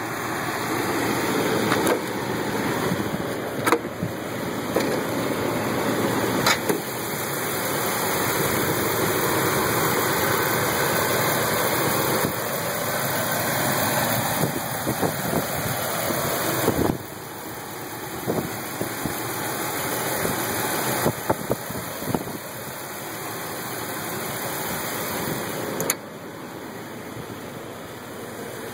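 Jeep Wrangler engine idling steadily, with a few short clicks over it.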